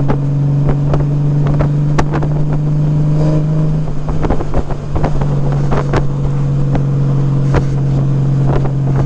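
2018 Honda Gold Wing's flat-six engine through Shark Road aftermarket mufflers, cruising at a steady speed around 3,000 rpm with a steady low exhaust drone. Wind buffeting on the microphone adds short crackles.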